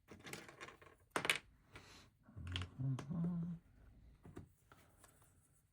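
Plastic LEGO bricks being handled and pressed together: scattered clicks and rattles, the sharpest about a second in. A short low hum of a voice comes in the middle.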